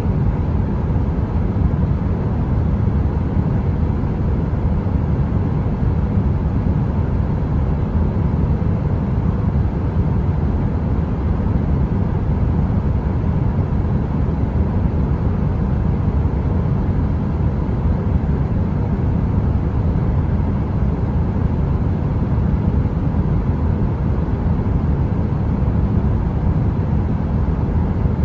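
Heater running with a steady, deep, even rumble of noise and a faint constant hum over it, with no crackle or change.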